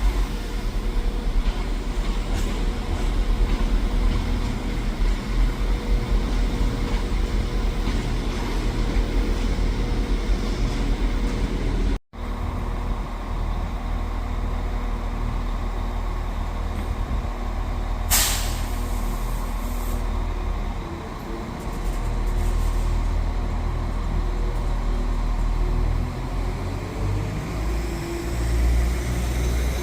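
Train running with a steady low engine rumble, with a short sharp hiss of air from the brakes about eighteen seconds in. The sound cuts out for an instant about twelve seconds in.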